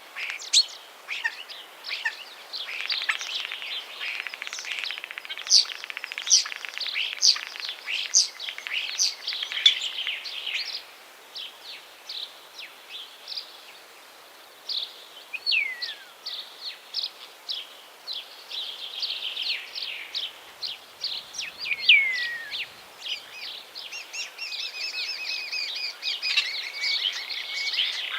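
Several songbirds singing at once, a dense chorus of high chirps and trills with a few falling whistled notes, thinning briefly about halfway through.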